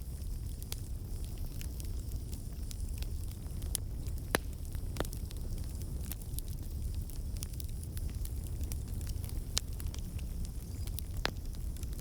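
Campfire burning with a steady low rumble, crackling and popping irregularly, with sharper pops about four seconds in and again near the end.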